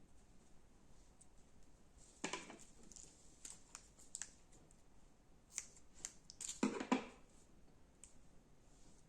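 Crunchy slime being pressed and stretched, giving small scattered crackles and clicks, with two louder crunches about two seconds in and again near seven seconds.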